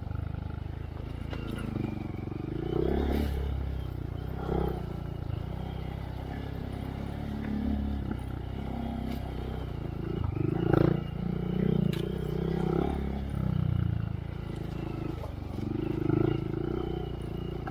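Honda Monkey's single-cylinder engine through a Yoshimura RS3 exhaust, riding on a trail with the throttle rising and easing every second or two. A few sharp knocks come through, about a third of the way in and again past the middle.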